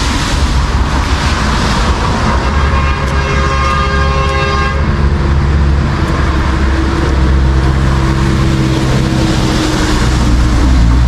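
Road traffic running with a steady low rumble, and a vehicle horn sounding once for about two and a half seconds a couple of seconds in.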